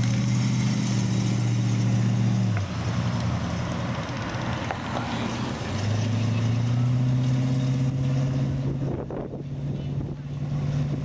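Car engines running at low revs as cars drive slowly past one after another: one steady engine note drops away about two and a half seconds in, and another comes in about six seconds in, rising slightly in pitch as it pulls away.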